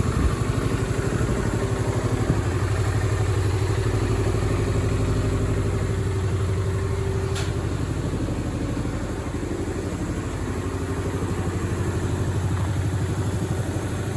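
2004 Yamaha Grand Majesty 250 scooter's single-cylinder four-stroke engine idling steadily.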